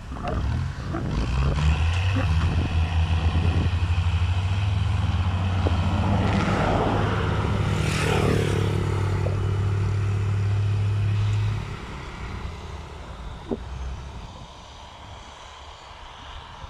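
Tractor diesel engine running loud and steady, with a noisy scraping burst near the middle. The engine sound then drops off suddenly about three-quarters of the way through, leaving a quieter rumble.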